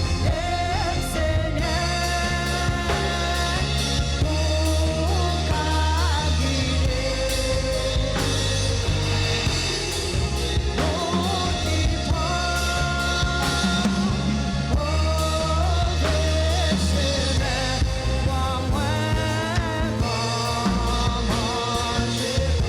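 Live church worship band playing with drums and bass while a vocalist sings a melody.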